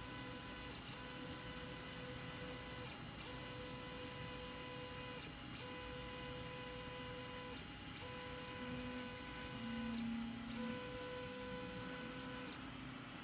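D100 3D printer's stepper motors driving the carriage through moves, its carriage bearings freshly readjusted after binding. A steady electronic whine comes in stretches of about two seconds with brief breaks, and a lower tone shifts pitch about two-thirds of the way through.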